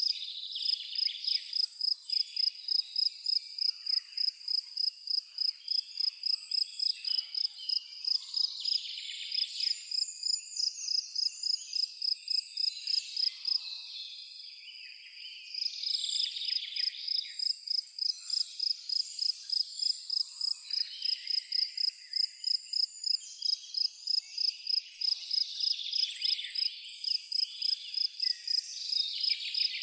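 Forest ambience: a cricket chirping in a steady high-pitched rhythm of about three chirps a second, stopping for a moment about halfway through. Birds sing and call in the background.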